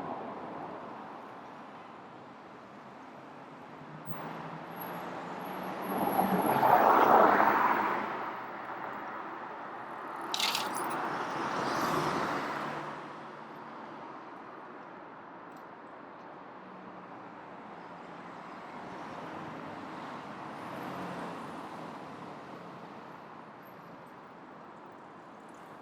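Road traffic on a city street: a vehicle passes loudly about six to eight seconds in, a short sharp hiss follows a couple of seconds later, then another vehicle passes, over a steady low hum.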